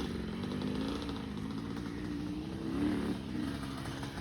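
Small 65 cc dirt bike engine revving as it climbs a steep, twisty trail, the pitch rising and falling with the throttle, with quick rev blips near the start and about three seconds in.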